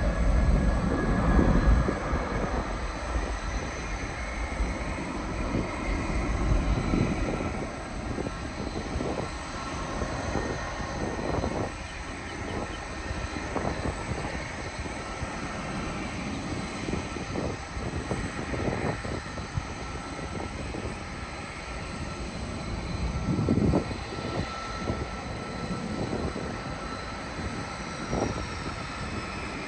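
Airliner landing: the engines give a loud low rumble in the first two seconds or so, which then fades, while a thin high engine whine carries on and slowly falls in pitch near the end.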